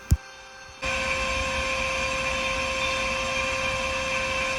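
Spindle of a kit-built CNC router running at steady high speed, a constant high-pitched whine over a rushing noise. It comes on abruptly a little under a second in, just after a single click.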